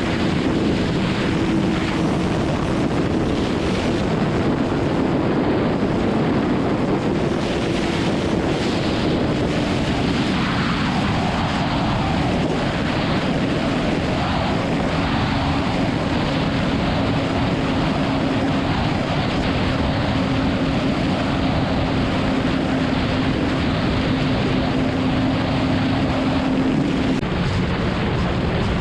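BMW S1000RR's inline-four engine at a steady highway cruise, under heavy wind rush over the microphone. The engine note holds steady and drops in pitch near the end.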